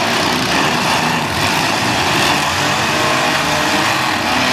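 Several demolition derby cars' engines running and revving together, loud and continuous, with the pitch shifting as the drivers work the throttles.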